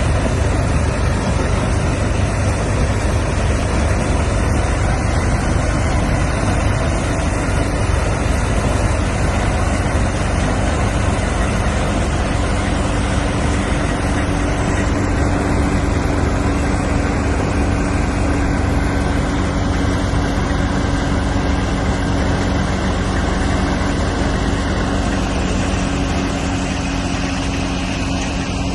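Straw (bhusa) harvesting machine running steadily, a loud, even mechanical noise of engine and threshing machinery. A steady hum comes in about a quarter of the way through and grows stronger.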